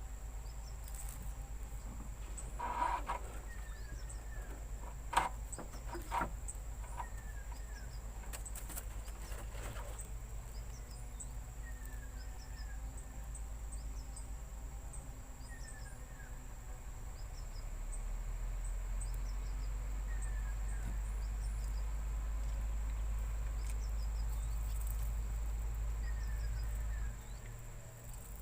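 Steady high-pitched insect drone, with short falling chirps repeating every few seconds and a low rumble that swells about two-thirds of the way through and drops away near the end. A few sharp clicks sound about three, five and six seconds in.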